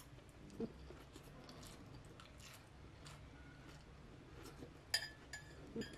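A person chewing crisp lettuce, with soft crunches. Near the end a metal fork clinks with a short ring against a glass bowl.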